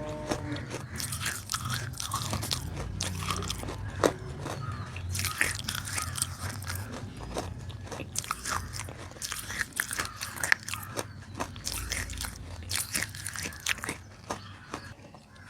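Close-up biting and crunchy chewing of roasted nakumatt clay, a dense run of sharp, crisp crunches.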